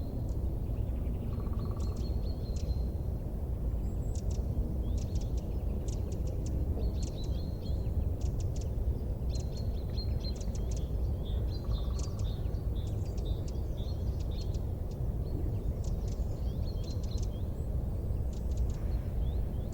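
Small birds chirping, with short high whistled notes and quick runs of high ticks that come and go, over a steady low rumble.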